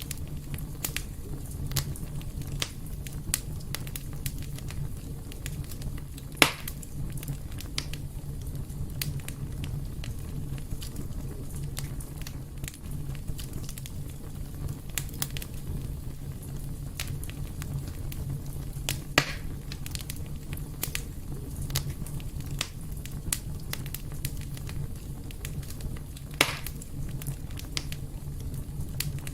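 Fire burning in a fireplace: a steady low rumble with frequent small crackles, and three louder pops, about a fifth of the way in, about two-thirds in, and near the end.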